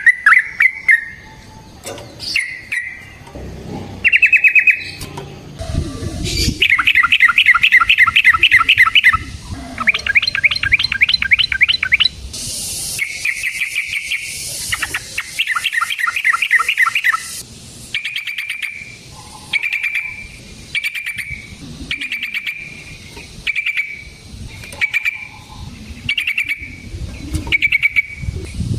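Yellow-vented bulbul (trucukan) singing loudly: bubbly phrases and long rapid trills through the first half, then short repeated calls about once a second.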